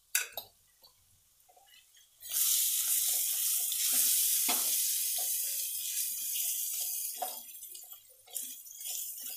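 Masala frying in hot oil in a kadhai sizzles loudly once cream is stirred into it, with a ladle scraping and knocking against the pan. A few light clinks of the ladle and a steel bowl come first. The hiss sets in about two seconds in and dies down toward the end as the masala keeps frying.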